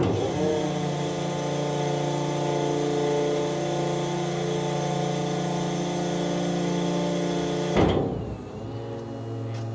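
Electric garbage compactor truck's hydraulic power unit running with a steady, even hum as the push plate retracts into the body. About eight seconds in there is a clunk, and the hum drops to a quieter, lower tone.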